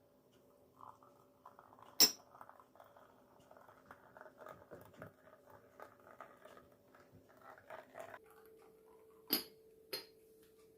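Kitchen handling sounds: a sharp clink of dishes or utensils about two seconds in and two more near the end, with a run of small soft knocks in between, over a steady hum that changes pitch partway through.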